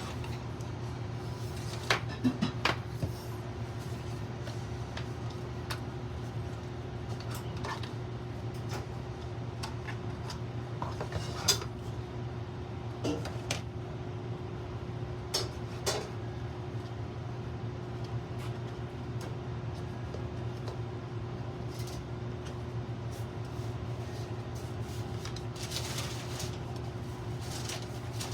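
Scattered sharp clicks and light knocks of small hard plastic and metal parts being handled: a razor, its stand and a travel case taken from the packaging. These come over a steady low hum.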